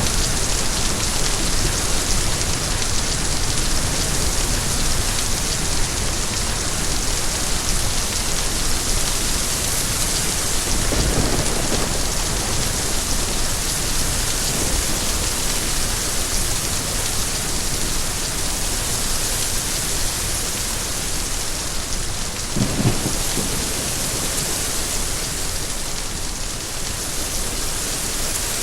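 Steady rain falling, with two brief low rumbles of thunder, one about a third of the way in and one near the end.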